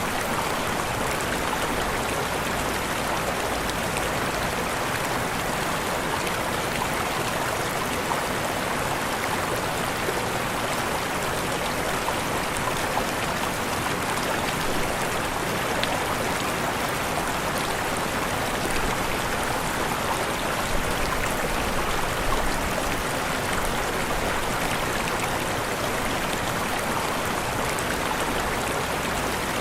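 Waterfall: steady rushing, splashing water, even throughout.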